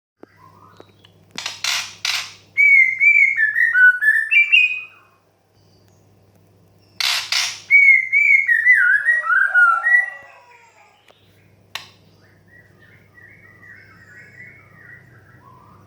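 Female white-rumped shama calling: twice a couple of short harsh rasping bursts, each followed by a warbling whistled phrase that steps downward. Near the end comes fainter, softer chattering.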